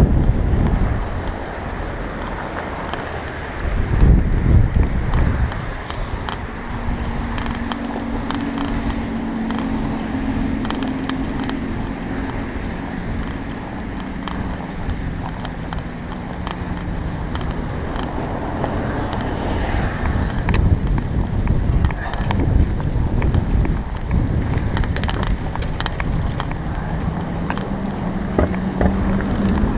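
Wind buffeting a GoPro's microphone while a bicycle is ridden through fresh snow, with scattered small clicks. A low steady hum runs through the middle and comes back near the end.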